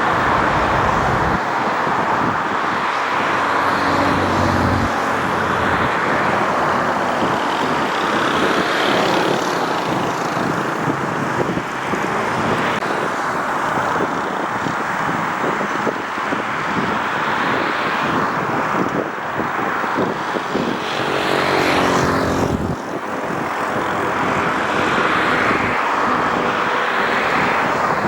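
Airbus A350 jet engines (Rolls-Royce Trent XWB) running at takeoff power as the airliner climbs out, a loud steady noise with a brief dip near the end.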